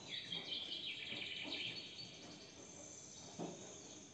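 Small birds chirping and trilling in high, quick repeated notes, with a falling chirp near the start.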